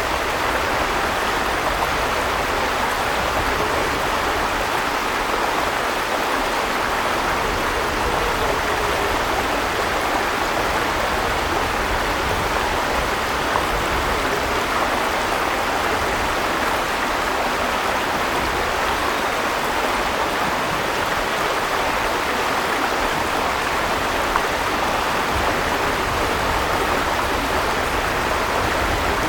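River water rushing steadily, an even hiss with no change in level.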